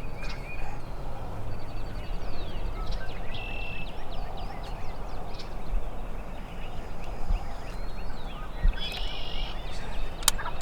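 Wild turkey calls mixed with short, high songbird chirps over steady outdoor background noise, with a single sharp click near the end.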